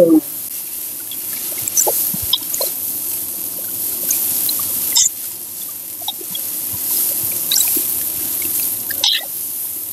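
Boiled spaghetti sizzling in hot oil in a steel wok as it is stir-fried, a steady hiss, with a few clinks and scrapes of a metal spatula against the wok.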